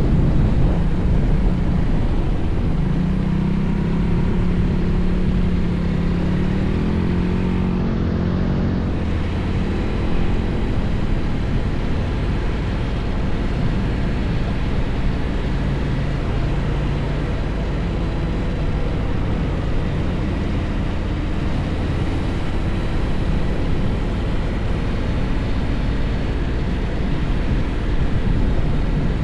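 Honda X-ADV's parallel-twin engine running under way, under a steady rush of wind and road noise. The engine note stands out and shifts in pitch a few seconds in, then sinks back into the rush.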